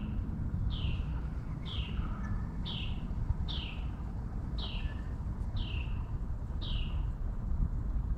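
A bird calling: a series of about eight short, downslurred whistled notes, roughly one a second, each falling in pitch, over a steady low outdoor rumble.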